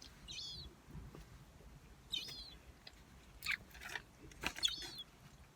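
Gulls giving short, high-pitched calls about four times, with faint chewing of food close by.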